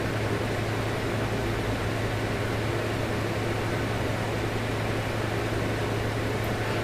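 Steady background hum and hiss with a constant low hum, like a fan running, with no change in level.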